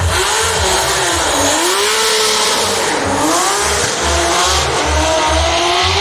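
Drift car engine revving up and down through a slide, its pitch dipping and then climbing toward the end, with tyre squeal over it.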